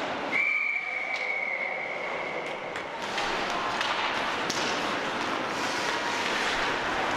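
A referee's whistle blown in one long steady high blast of about two and a half seconds, over the constant noise of an ice rink.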